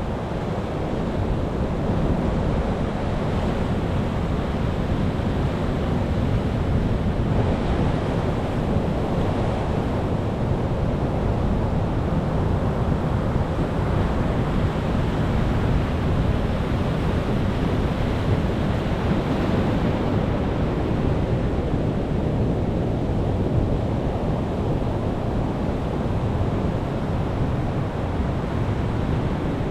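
Sea waves breaking and washing on the shore: a steady surf whose loudness swells and eases slowly every several seconds.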